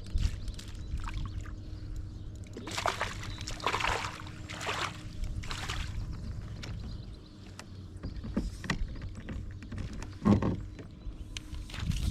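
Water splashing and sloshing against a fishing kayak, in several bursts a few seconds in and once more near the end, with scattered knocks and a faint steady low hum underneath.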